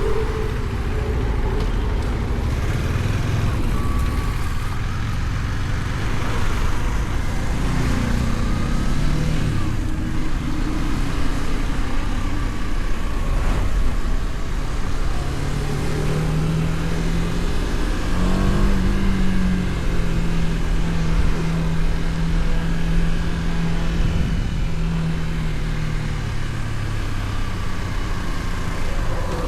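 KTM Duke 250's single-cylinder engine running at road speed, with heavy wind rush on the helmet-mounted microphone. The engine note rises and shifts about eight seconds in, then holds a steady pitch through most of the second half, with a short rise partway through.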